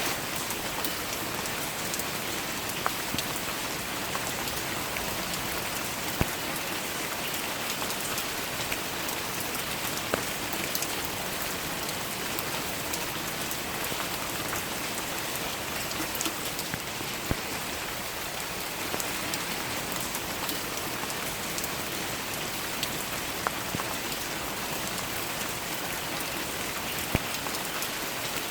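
Steady rain pattering on a surface, with the odd louder single drop striking close by every few seconds.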